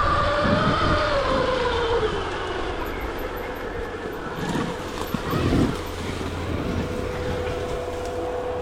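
Stark Varg electric dirt bike's motor whining, its pitch falling over the first couple of seconds as the throttle eases, over a steady low rumble from the ride; a steady whine comes back near the end.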